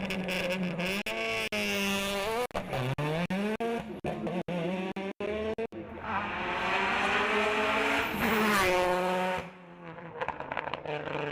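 Hillclimb race car engine revving up and down, with many quick throttle cuts or gear changes. About six seconds in it pulls hard on one long rising rev, then backs off near the end.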